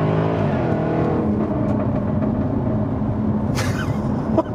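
Jaguar F-Type SVR's supercharged V8 under hard acceleration, its pitch climbing and dipping at an upshift in the first second, then pulling more steadily. A short sharp hiss of noise cuts in about three and a half seconds in.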